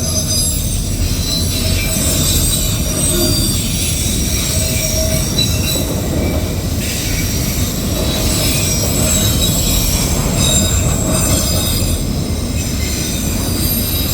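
Loaded autorack freight cars rolling past: a steady heavy rumble of steel wheels on rail, with thin high-pitched wheel squeals rising and fading over it.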